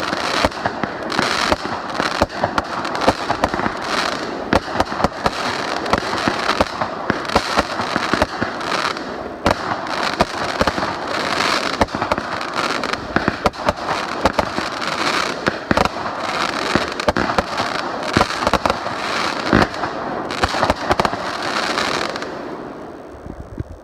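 Fireworks going off in a dense, continuous barrage of rapid crackling and popping that dies away near the end.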